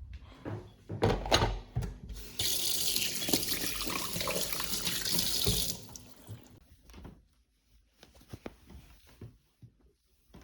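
A water tap runs into a sink for about three seconds and is then shut off abruptly, with a few knocks and clatters of handled objects before it and light clicks after.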